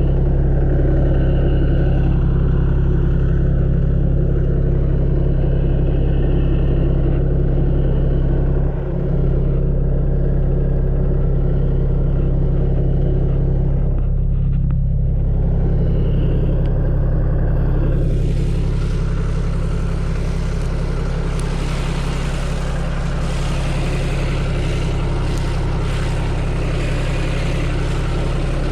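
Engine of a farm machine running steadily, with a deep, even hum. About two-thirds of the way through, a hiss rises in the upper range.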